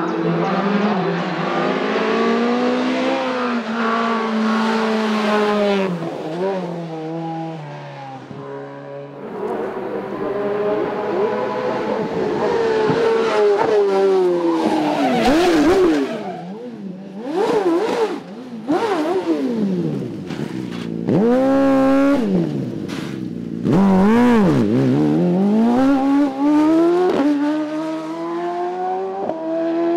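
Race car engine driven hard on a hillclimb, its revs rising through the gears. In the second half the pitch drops and climbs sharply several times as the car brakes and downshifts for corners.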